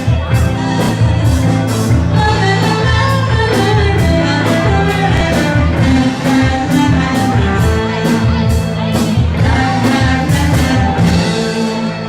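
Live pop-rock band playing with a steady drum beat, bass and guitar, with singing over it.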